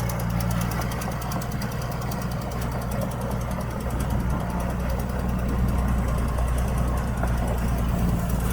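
Heavy earthmoving machine's diesel engine running steadily at a low, even pitch, with a fine rapid clatter over it.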